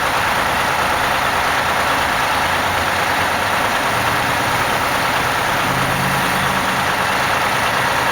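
Diesel engine of a GM New Look transit bus idling steadily.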